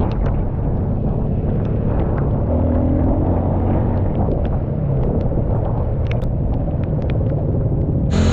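Honda 150cc dirt bike's single-cylinder engine running while riding, under heavy wind rumble on the microphone, with scattered light ticks.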